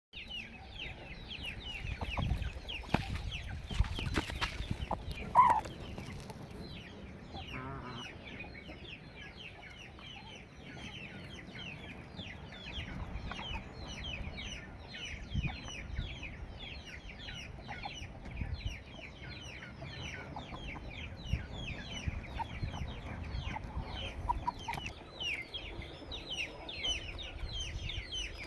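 Flock of Peruvedai chickens calling and clucking: many short, high calls overlapping throughout, with a louder single call about five seconds in. A few knocks and bumps come in the first five seconds.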